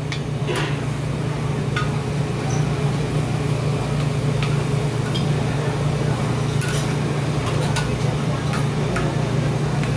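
Steady low hum with scattered light clinks of metal utensils at a street-food stall frying oyster omelettes.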